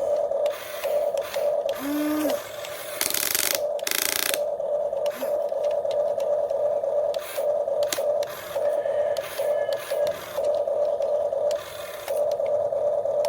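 Small electric motor of a radio-controlled excavator whining at one steady pitch, switching on and off in short spells every second or so as the machine is worked. Two short rushing noises come about three and four seconds in.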